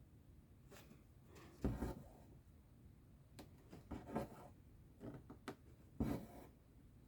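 Needle and thread being drawn through cross-stitch fabric: a series of soft, scratchy pulls and rustles, roughly one every second, the loudest about two seconds in and again about six seconds in.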